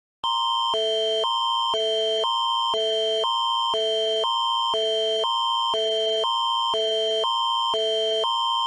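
Canadian Alerting Attention Signal (Alert Ready): a synthesized alert tone switching every half second between a higher chord and a lower chord, over a steady high tone. It is the attention signal that comes before a Canadian emergency alert message.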